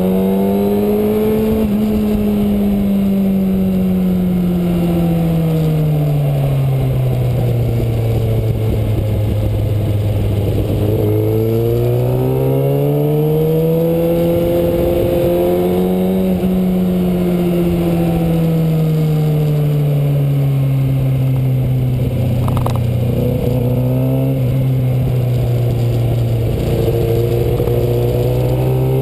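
Kawasaki Ninja ZX-6R inline-four engine running while riding, its pitch rising and falling slowly: up for the first two seconds, down until about eleven seconds in, up again to about sixteen, down until about twenty-four, and climbing again near the end.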